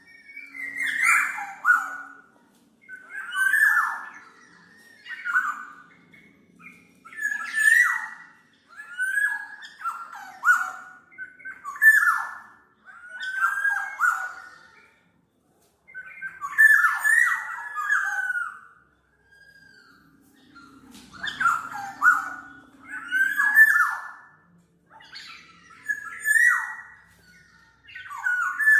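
Black-naped oriole (kepodang mas) calling: short, full-toned phrases with a rough edge, repeated about every one and a half to two seconds, with one longer pause past the middle.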